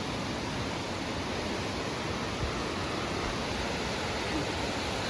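Steady rush of falling and running water from Mossbrae Falls, spring-fed water pouring off a mossy cliff into the river.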